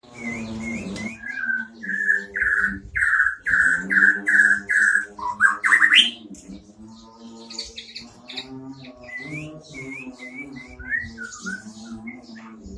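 White-rumped shama singing: a run of loud, clear whistled notes, about two a second, ending in a quick rising sweep about six seconds in, followed by softer, varied chirping phrases.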